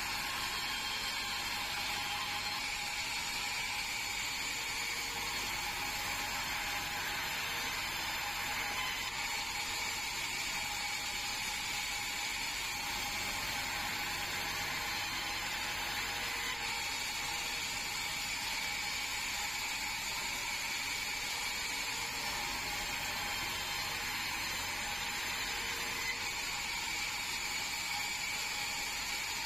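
Band sawmill running steadily with a constant high-pitched whine. The sawing noise swells and eases about every eight seconds.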